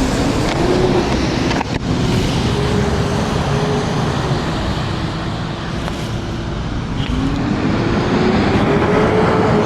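TRBK-M2 electric scooter's motor whining while riding, its pitch dipping and then rising with speed near the end, over a steady rush of wind and wet road noise.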